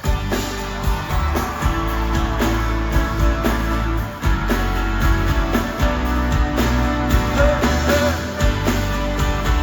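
Live pop-rock band playing an instrumental passage through the stadium PA, with drums keeping a steady beat over bass and sustained chords.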